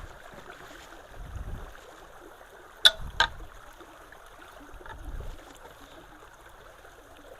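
Creek water flowing steadily in the rain, with two sharp knocks close together about three seconds in.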